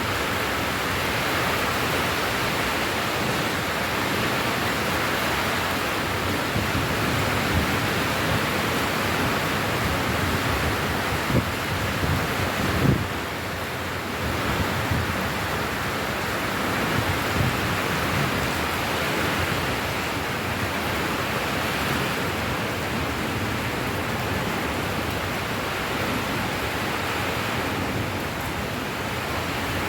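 Steady rain falling, an even hiss, with a few brief low thumps near the middle.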